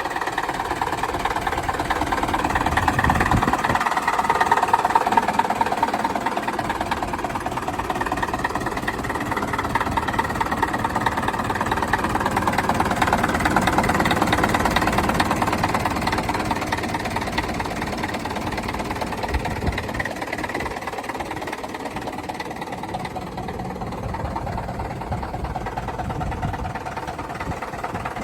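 1969 International 634 tractor engine running steadily at idle, with an even, rapid pulsing beat. It grows louder and quieter a few times.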